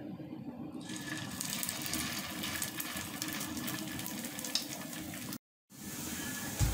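Raw mashed pumpkin and lentil chops sizzling as they are laid into hot shallow oil in a frying pan. The sizzle starts about a second in when the first patty goes in, and cuts out briefly near the end before carrying on.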